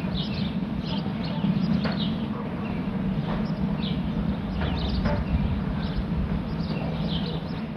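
Small birds chirping now and then, short high calls, over a steady low hum.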